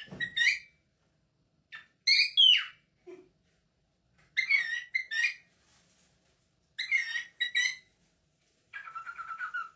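Pet parrot calling and whistling: four bursts of short, sharp, high-pitched calls about two seconds apart, then a longer wavering whistle near the end.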